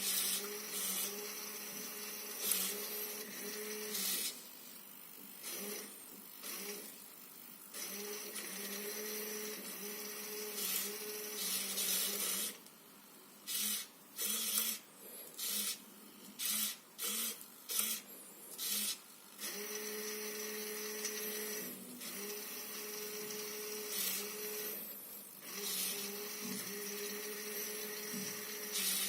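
Small DC hobby motor, driven from an Arduino by a joystick, whirring with a steady whine in stretches that start and stop. In the middle comes a quick series of short bursts as it is switched on and off, about one a second.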